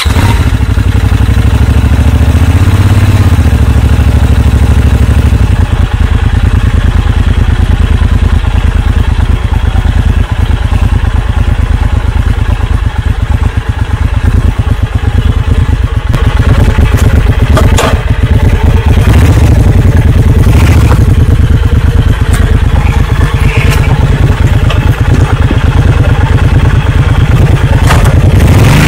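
Honda V-Twin Magna 250's 250 cc V-twin engine idling steadily just after starting, with a few brief rises in revs, the last one near the end.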